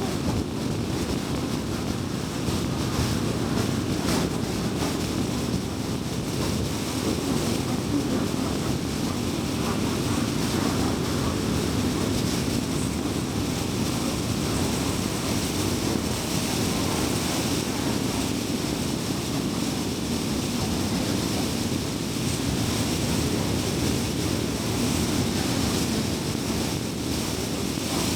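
Steady road noise of a car driving on a highway: tyre noise over a low engine hum, even and unbroken.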